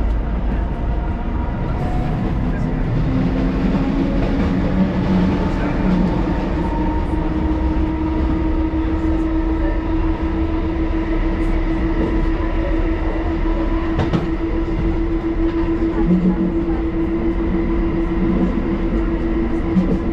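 1938 Tube Stock electric train running, a steady loud rumble of wheels and running gear. A motor whine rises in pitch over the first several seconds and then holds steady, and there is a single sharp click about 14 seconds in.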